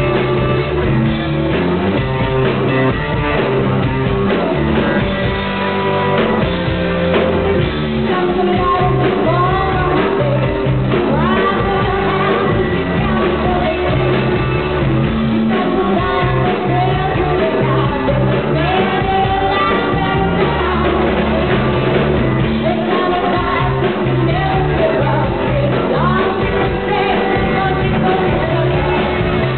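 Rock band playing live: electric guitar, bass and drums with a singer's voice over them, singing and shouting.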